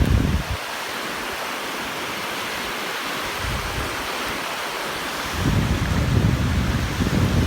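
Wind buffeting the microphone, dropping away about half a second in and coming back about five seconds in. Between the gusts there is a steady hiss of sea surf washing on the beach.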